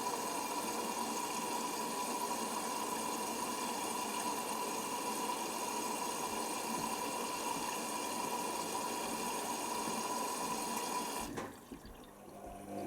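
Hoover Nextra HNWL7146 washer dryer filling with water at the start of a wash: a steady rush of water through the inlet, which cuts off suddenly near the end.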